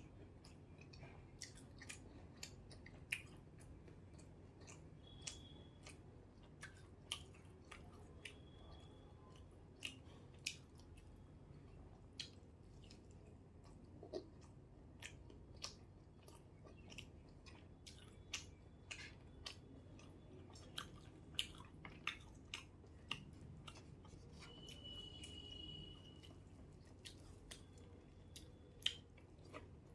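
Faint close-miked eating sounds: a person chewing rice and curry, with irregular wet mouth clicks and smacks.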